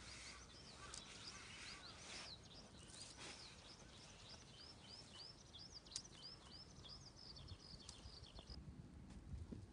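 Faint birdsong outdoors: a small bird repeating short, quick chirps, about three a second, stopping shortly before the end.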